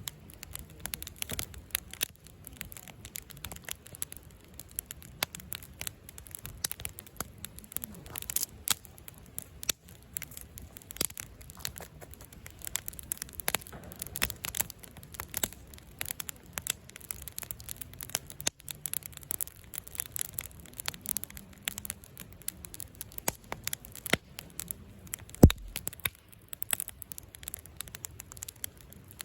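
Wood campfire crackling, with many small irregular snaps and pops and one sharper, louder pop near the end.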